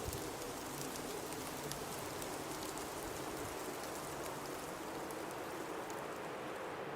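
Blizzard ambience: a steady rush of storm wind with faint scattered ticks in it.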